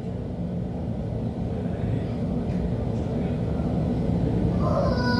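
LHB TW2000 light-rail car running, a steady rumble that grows gradually louder. Brief high whining tones come in near the end.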